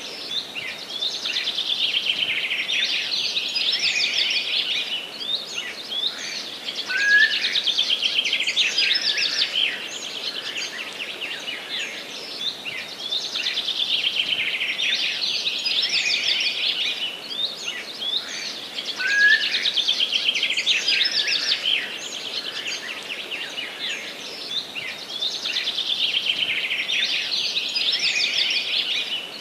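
A songbird singing a long, high, rapid trilling song of about three seconds, repeated about every six seconds, with a short rising call twice, over a steady background hiss of forest ambience.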